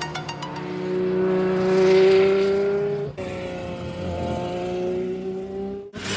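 Supercar engine accelerating hard, its pitch rising steadily, cut off abruptly about three seconds in by a second clip of an engine climbing in pitch again.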